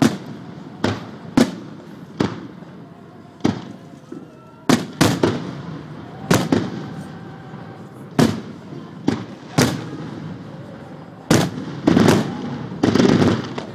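Aerial fireworks shells bursting overhead, a sharp bang every second or so. The bangs come closer together near the end, in a denser run.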